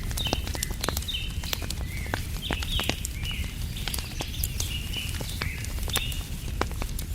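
Campfire crackling with frequent sharp pops, over a steady low rumble, while birds give short repeated chirps throughout.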